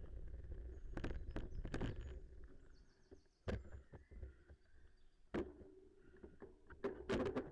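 Bicycle ride on a trail: a low rumble of wind and tyres, with sharp knocks and rattles every second or two as the bike goes over bumps.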